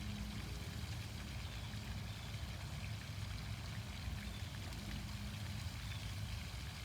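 Water splashing steadily from an outdoor fountain, with a steady low rumble beneath it.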